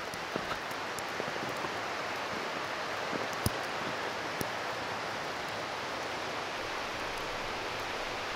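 Steady road and tyre noise inside a moving car's cabin on a snowy highway, with scattered small ticks and one sharper knock about three and a half seconds in.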